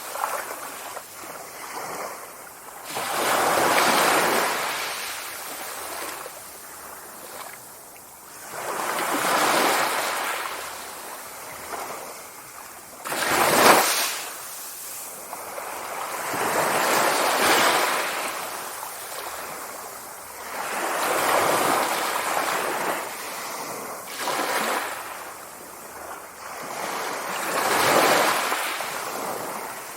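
Sea waves breaking and washing on a shore, each surge swelling and fading every few seconds, with one sharper crash about halfway through.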